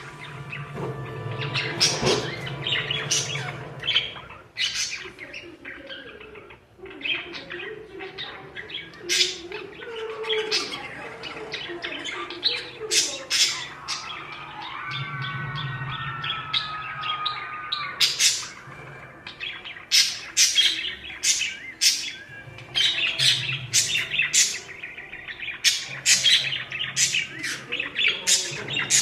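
Pet parakeets chattering: a dense run of short, high chirps and squawks, with a longer warbling call about halfway through.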